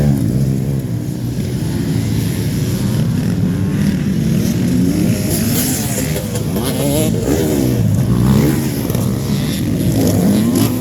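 Several motocross bikes racing, their engine notes overlapping and rising and falling again and again as the riders rev up and shift.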